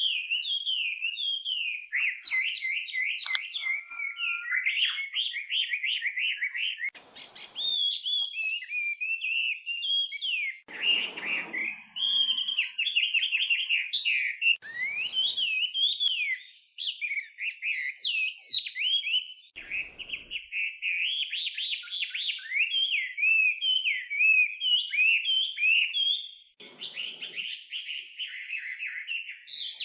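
Chinese hwamei singing a long, nearly unbroken song of fast, varied whistled phrases, with rapidly repeated notes and quick rising and falling slurs.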